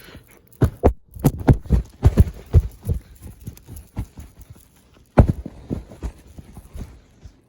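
A scuffle: a rapid, irregular series of thumps and knocks as the two fighters hit and grapple, with one sharp, louder hit about five seconds in.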